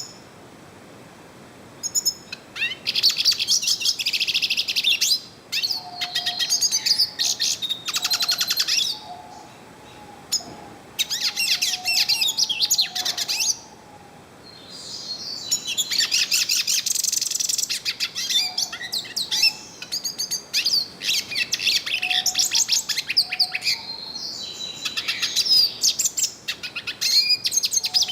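Yellow-faced siskin singing: long phrases of fast twittering notes, delivered in several bouts with short pauses between them.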